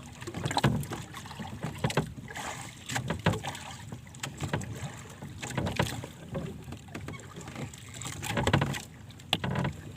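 Water slapping and splashing against a small fishing boat's hull, with irregular knocks.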